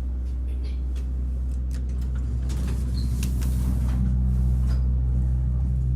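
Baxter & Sons elevator running between floors: a steady low hum that grows slightly louder, with a few light clicks and knocks.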